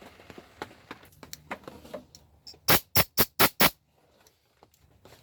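Five quick, loud knocks in a row, about four a second, after a few faint scattered clicks.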